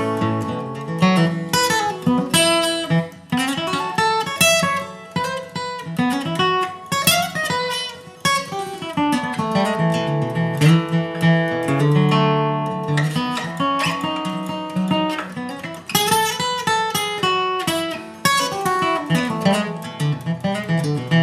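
Acoustic guitar flatpicking an instrumental bluegrass break between sung verses, quick single-note runs mixed with strummed chords.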